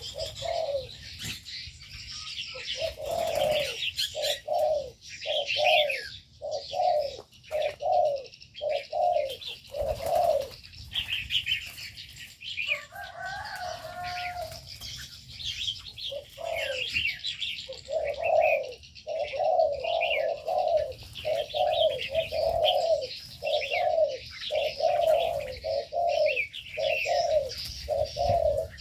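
Aviary birds calling: a low, hoarse note repeated over and over at about one to two a second, with a short break midway, while smaller birds chirp high above it throughout.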